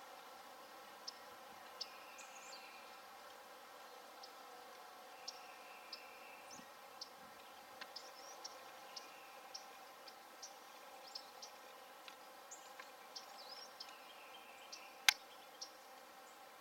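Small birds chirping faintly: short, high chirps every second or so over a faint steady hum, with one sharp click near the end.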